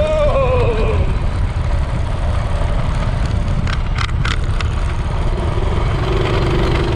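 Homemade mini bike's 220cc engine running over a heavy low rumble, its pitch rising and then falling in the first second. There are a few sharp clicks around the middle, and a steady note from near the end.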